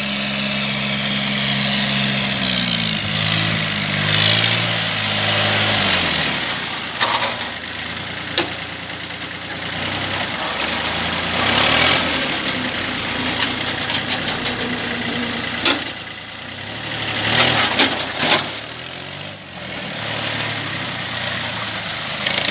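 Mitsubishi MTE 200 compact tractor engine running, its speed rising and falling a few times, with several sharp clanks along the way.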